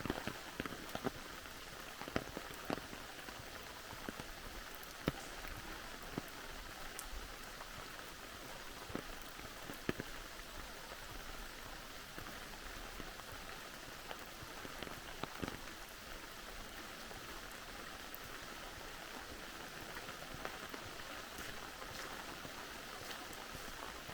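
Steady rain, with scattered louder drops striking close by, more often in the first ten seconds or so.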